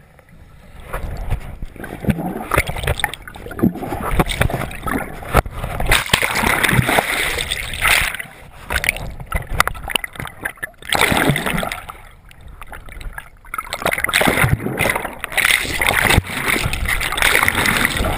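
Fast river current splashing and gurgling close around a swimmer and a GoPro camera, rising and falling irregularly, with a few short stretches where the sound turns dull and quieter.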